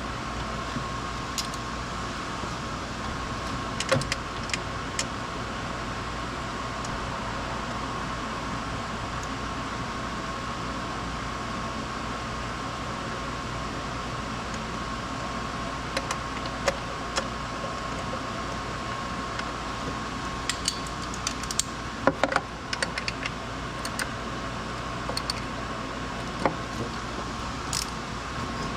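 Scattered light metallic clicks and clinks of hand tools and small parts being handled, bunched together about twenty to twenty-three seconds in. Under them runs a steady hum with a thin high tone.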